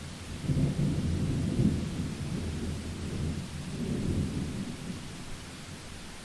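Thunder rolling over steady rain: a low rumble swells about half a second in, peaks soon after, swells again around four seconds, then fades away near the end.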